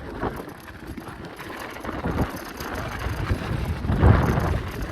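Wind buffeting the microphone, with irregular knocks and rattles from moving along a rough, thawing track; the loudest gust comes about four seconds in.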